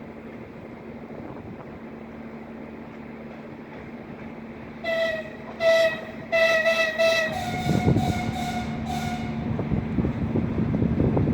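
Train horn sounding several short blasts about five seconds in, the last few slightly higher in pitch, as a low train rumble swells up beneath it. Wind buffets the microphone.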